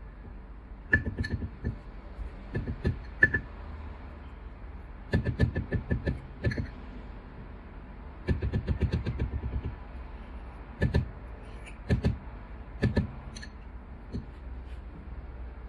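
Knocking and clattering of coffee-making gear being handled and put together, in several short bursts of rapid taps, over a faint steady hum.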